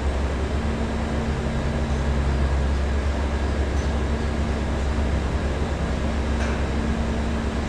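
A machine running steadily: a low, constant hum with a steady tone above it.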